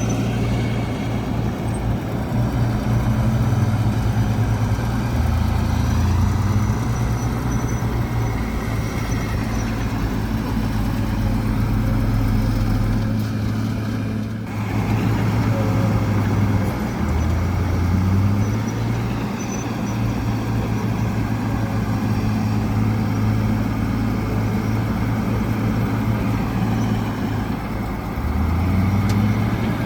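Heavy diesel engine of earthmoving machinery running continuously, its note dipping and rising again a few times.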